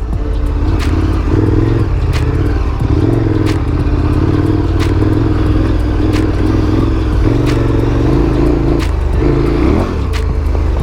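Adventure motorcycle engine running at low, fairly steady revs while riding a trail, with scattered sharp clicks and clatter throughout and a brief drop in engine sound near the end.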